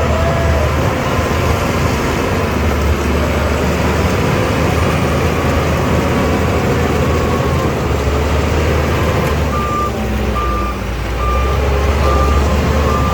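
Shantui DH17C2 bulldozer's diesel engine running steadily under load. About two-thirds of the way in, a reversing alarm starts a steady run of short beeps, a little under two a second.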